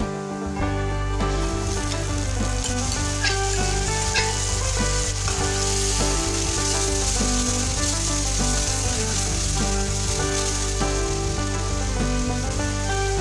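Tomato, green chilli and garlic paste sizzling as it is poured into hot oil with fried onions in a steel wok, then stirred with a steel ladle. The sizzle starts about a second in and stays steady.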